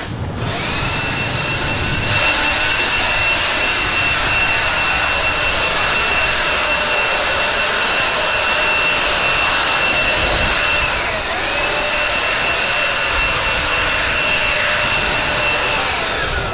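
Electric air pump running steadily with a high whine as it inflates an air tent. The whine dips briefly about eleven seconds in, picks up again, and winds down near the end.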